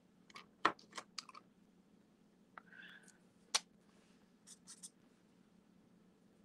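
Sharp clicks and light taps of markers and their caps being handled and set down on a desk, about a dozen scattered over the first five seconds, with a short scratchy stroke about three seconds in.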